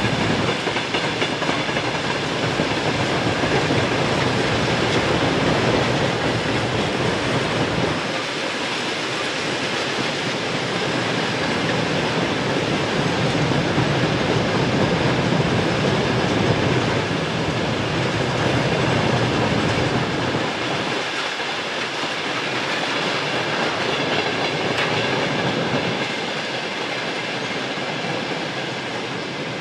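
Freight train's covered wagons rolling past on the rails, a steady running noise of wheels and cars that fades near the end as the last wagons go by.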